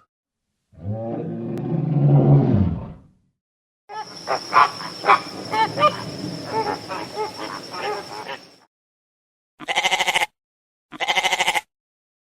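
A run of animal calls, one after another: first a low, drawn-out call, then a few seconds of sharp chirps and clicks over a steady high tone, then two short buzzy calls.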